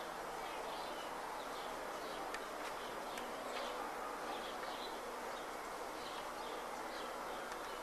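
Birds chirping now and then, short high calls scattered over a steady background hiss of outdoor ambience.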